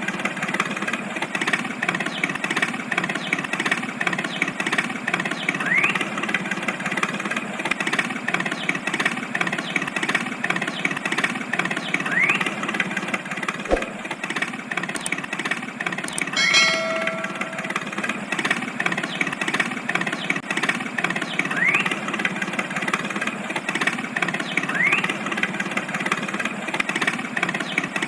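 A motor running steadily, with short rising chirps every few seconds. A brief bell-like ding rings about 16 seconds in.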